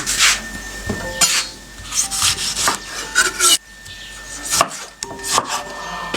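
A run of short, rough scraping strokes from kitchen work, about half a dozen at irregular spacing.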